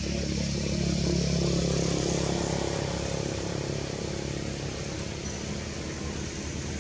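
A motor vehicle engine running with a steady low hum, growing louder about a second in and fading again over the next few seconds, like a vehicle passing by.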